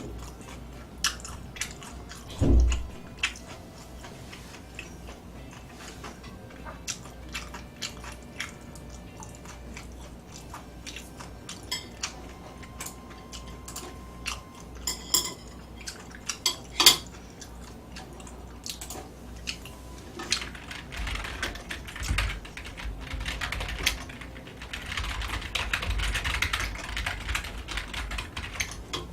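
Eating sounds: utensils clicking against dishes, with chewing. There is one heavy thump about two and a half seconds in, and a louder, denser stretch of chewing and clatter near the end.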